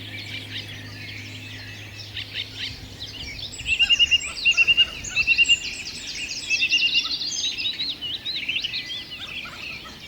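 Several wild birds chirping and singing at once, a dense chorus of high chirps and whistles, with a bird repeating quick runs of short notes in several bursts through the middle.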